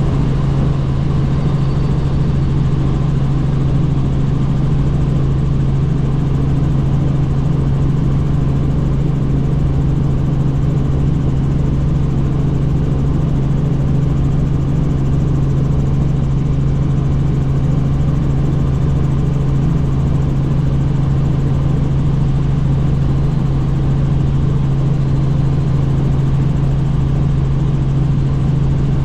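Helicopter in steady flight heard from inside the cabin: a constant low drone from the engine and rotors over a broad rushing noise, with no change in pitch or level.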